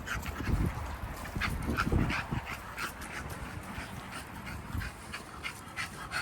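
American bully puppies playing, one of them making short high-pitched dog sounds that repeat irregularly, a few each second. Low rumbling in the first couple of seconds.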